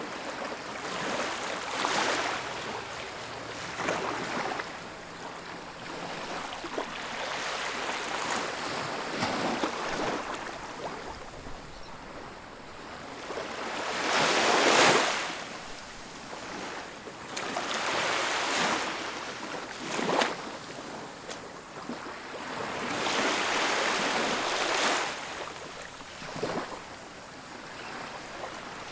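Ocean surf breaking and washing up a beach, swelling and falling every few seconds, with the biggest wave about halfway through.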